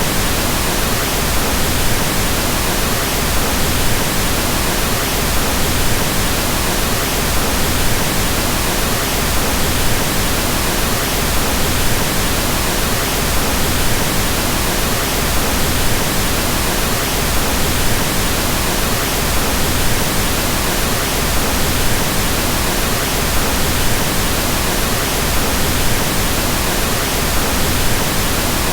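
Steady, unchanging pink noise: an even hiss across all pitches, with more weight in the low end than white noise.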